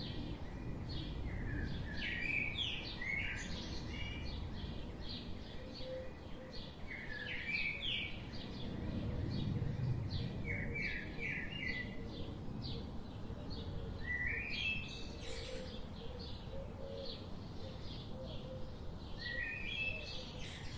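Birds chirping through the whole stretch, with several quick runs of rising chirps, over a low, steady rumble of background noise.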